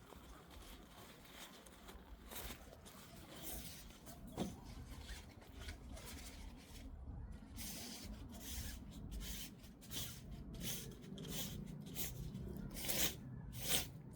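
A fishing-rod bag rustling as the rod is pulled out of it: an irregular string of short rubbing and rustling noises, thicker in the second half.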